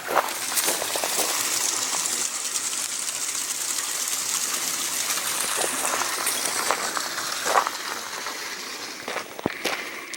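Steady rushing hiss of flowing water that swells up and fades away again near the end, with a few footsteps on a gravel trail.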